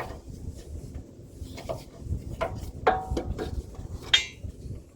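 Metal hand tools and loose bolts clinking and scraping during work on a truck's front differential. There are scattered clicks, a ringing clink about three seconds in, and a sharper metallic clink just after four seconds.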